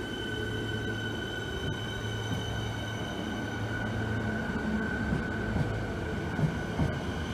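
Melbourne Metro electric suburban train pulling out past the platform: a steady high whine over a low hum. Low knocks of the wheels over the rail joints come in from about halfway through.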